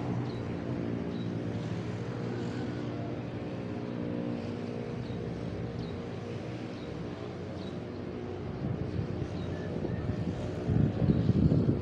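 A motor vehicle's engine runs steadily with a low hum. A bird repeats a short high chirp about once a second. Near the end a louder, rough rumble swells up.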